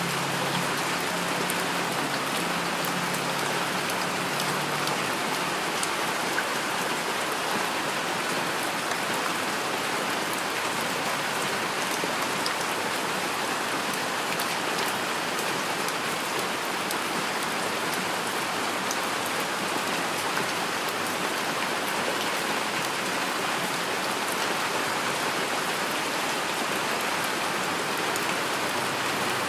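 Steady heavy rain, an even hiss of many drops falling on surfaces. A low rumble fades away in the first few seconds.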